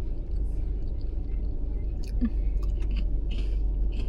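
A person chewing crunchy food close to the microphone, with irregular small crunches, over a steady low rumble.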